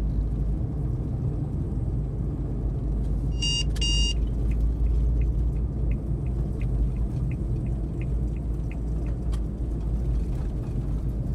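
Inside the cab of a Suzuki Every DA17V kei van: a steady rumble from the engine and road. About three seconds in there are two short electronic beeps. Then the turn-signal indicator ticks about three times a second for several seconds, as the van sets up its left turn after the toll booth.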